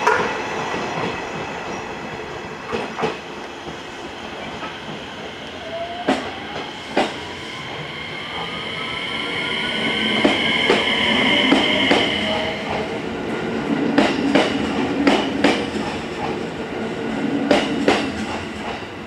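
Electric train pulling out and accelerating away, a whine rising in pitch over several seconds over a steady running rumble. Then its wheels click over rail joints in quick pairs as the bogies pass.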